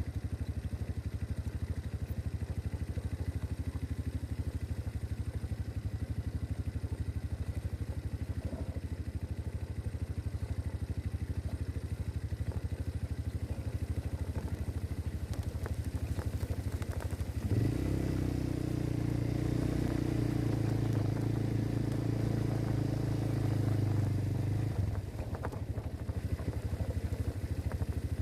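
MB Glock 200cc quad's engine idling with a steady low pulse. About two-thirds of the way in it is revved up and held at a higher, louder speed for about seven seconds, then drops back to idle.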